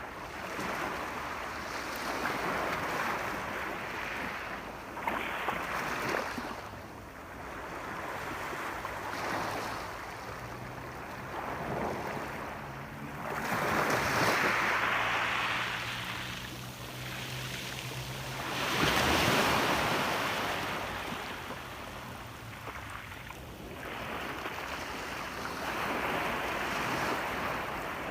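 Sea waves breaking and washing ashore in slow swells. Two surges are louder, about halfway through and again a few seconds later.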